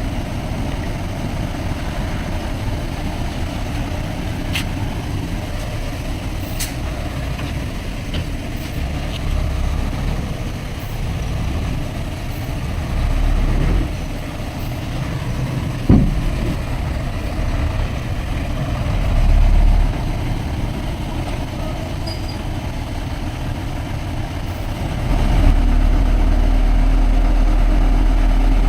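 Heavy diesel engine of earthmoving machinery running steadily, with a few light metallic clicks and one sharp knock about halfway through. The low rumble steps up and stays louder from about 25 seconds in.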